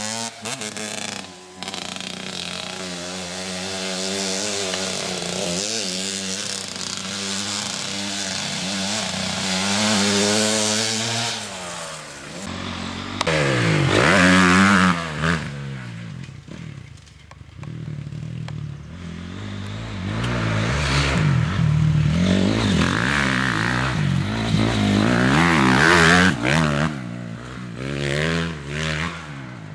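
Motocross dirt bike engines running hard, pitch climbing and dropping again and again as the throttle is opened and shut and gears change. They grow louder and fade as bikes come close and move off, quietest just past halfway.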